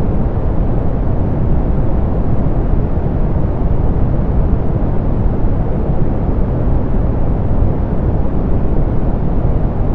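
Steady, softened pink noise: an even, unchanging hiss weighted toward the low end, muffled with little treble.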